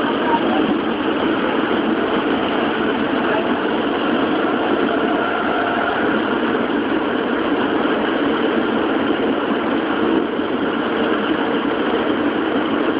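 Tokyo Metro Ginza Line 01 series subway train running between stations, heard from inside the car: a steady, unbroken noise of the wheels on the rails and the train's running gear.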